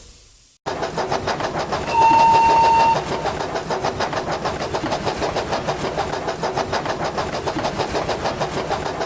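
Steam locomotive sound effect: rapid, regular exhaust beats that start abruptly, with a short steady whistle blast lasting about a second near the start.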